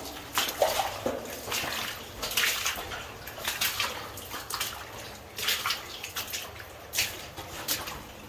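Boots sloshing and squelching through shallow water and boggy mud on a mine tunnel floor, as a string of irregular splashes.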